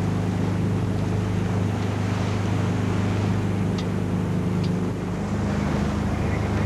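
Wind and water rushing past a sailing yacht surfing down the waves at speed, over a steady low hum that shifts slightly in pitch about five seconds in.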